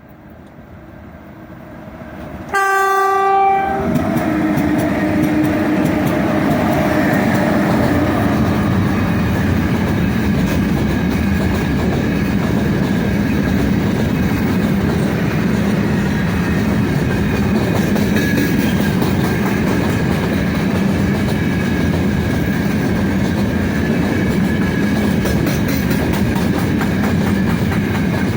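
A 3ES5K "Ermak" electric locomotive with a freight train approaches, sounds a short horn blast lasting about a second, then rolls past loud and steady, wheels clicking over the rail joints.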